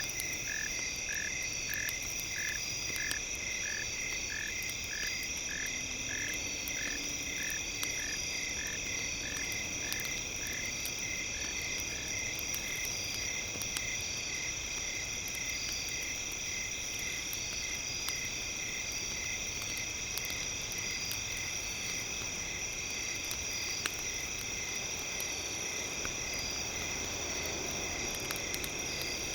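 Campfire crackling under a night chorus of frogs and insects. A frog calls about twice a second and fades out in the first half, over a steady high-pitched drone of several tones.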